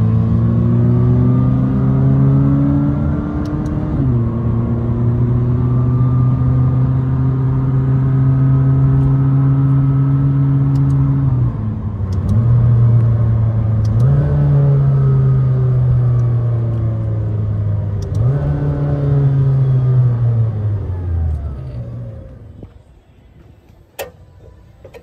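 McLaren 570S twin-turbo V8 accelerating hard through the gears, its pitch climbing and then dropping at each of about four upshifts. Near the end the revs fall off and the engine sound dies away.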